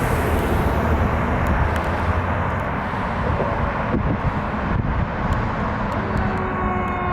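Pierce Enforcer fire engine's diesel engine rumbling steadily as it moves off on a response. Near the end its siren starts to sound, several pitches sliding slowly downward.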